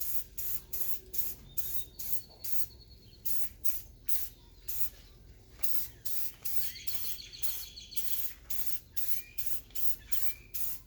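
Aerosol spray paint being sprayed in quick short bursts, about two to three hisses a second, while a first coat of paint goes onto a metal belt sander.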